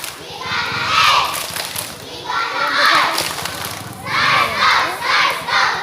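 A group of children shouting and cheering together in several loud bursts, about a second apart.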